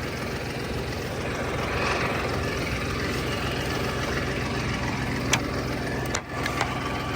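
An engine idling steadily, with a single sharp click about five seconds in.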